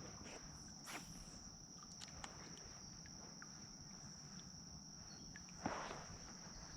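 Steady high-pitched insect chorus, like crickets, with a few faint ticks and one brief knock near the end.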